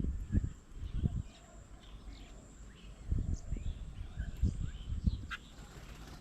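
Small birds chirping faintly in the background. Irregular low thumps come in clusters and are louder than the birdsong.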